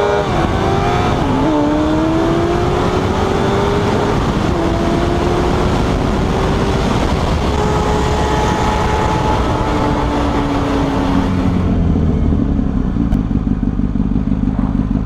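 Sport motorcycle engine pulling hard through the gears, its pitch climbing and then dropping at each upshift, with wind rushing past. About twelve seconds in, the wind noise stops and the engine drops to a low, pulsing run.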